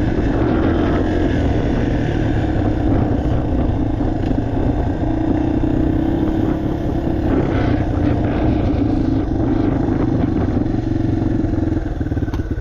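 Yamaha TT-R230's air-cooled single-cylinder four-stroke engine running at steady throttle under riding load, easing off near the end.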